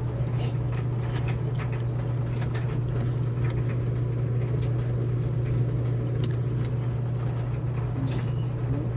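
Midea washing machine running, a steady low hum with light clicks and knocks scattered over it.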